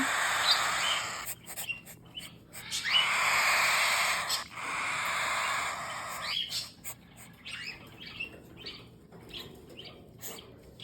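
Baby cockatiels hissing in defence while being handled: three long, breathy hisses. About six seconds in these give way to a run of short chirps and squeaks.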